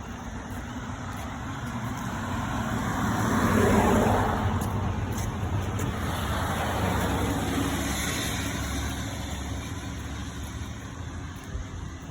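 Road traffic: a car passes, loudest about four seconds in, and a second vehicle goes by more softly a few seconds later, over a steady low rumble.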